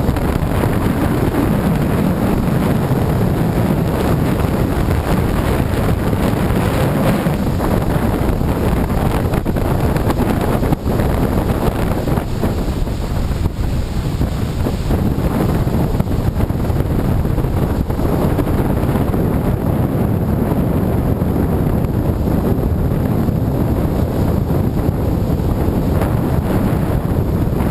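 Strong storm wind buffeting the microphone in a steady, heavy rumble, over the rush of rough surf breaking on the beach.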